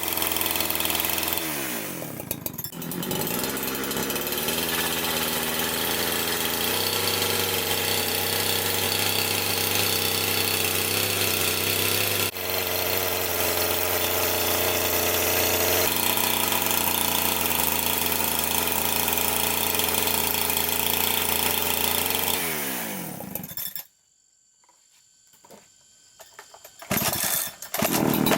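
Chainsaw engine running steadily, not cutting. It slows about two seconds in and picks back up. Near the end it winds down and stops, leaving a few seconds of near silence, then restarts and runs again.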